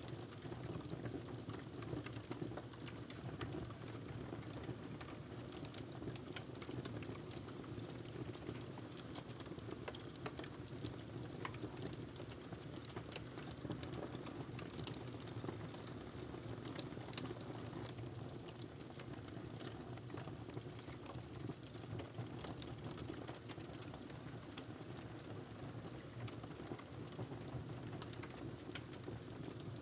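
Wood fire crackling in a fireplace: scattered sharp snaps and pops over a steady low rumble.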